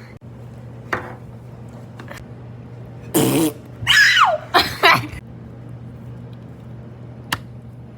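A person making made-up vocal sound effects: a short noisy blast about three seconds in, then a high squeal that falls in pitch, and another brief vocal sound right after.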